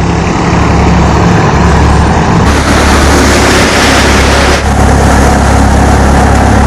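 Swaraj 960 tractor's diesel engine running steadily at a constant speed, a continuous loud machine hum with a slight change in tone about two and a half seconds in and again near the middle.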